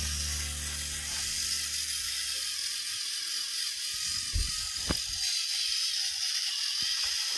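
Battery-powered Thomas & Friends TrackMaster toy trains running on plastic track, with a steady motor whir and hiss; a low hum fades out about three seconds in, and two sharp clacks come about half a second apart near the middle.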